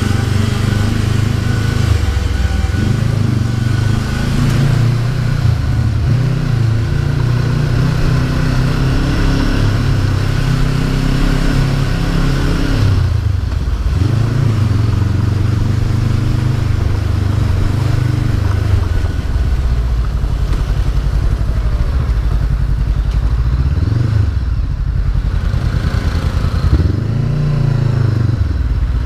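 Honda CB500F parallel-twin engine running steadily under way, its pitch dipping and climbing again a few times as the rider eases off and gets back on the throttle.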